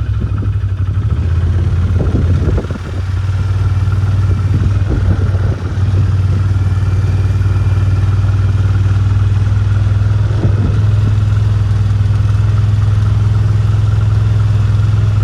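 A vehicle engine running steadily at an even speed, with a few brief rattles or knocks in the first few seconds and again about ten seconds in.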